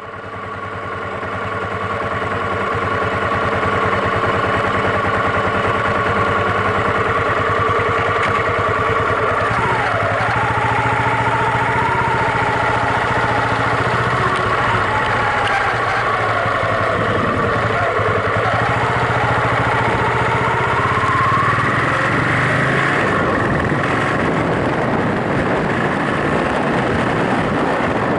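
Yamaha SRX400's single-cylinder four-stroke engine running steadily, fading in at the start. Midway its pitch sags and then climbs again.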